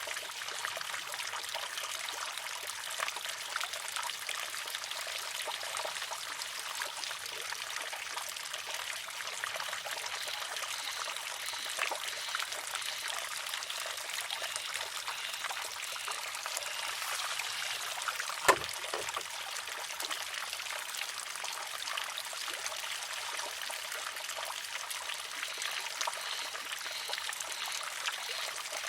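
Water trickling steadily into a wooden shishi-odoshi, with one sharp wooden clack about two-thirds of the way through as the filled arm tips over and strikes the rock.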